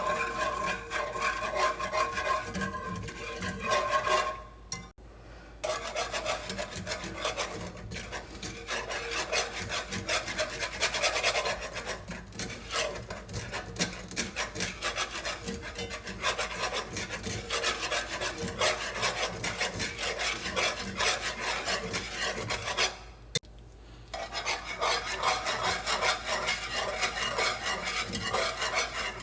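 A whisk scraping rapidly and steadily against a pan, stirring gravy made with chicken stock as it thickens. The whisking pauses briefly twice.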